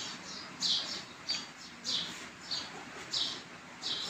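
A small bird chirping over and over, short chirps coming evenly about every half second.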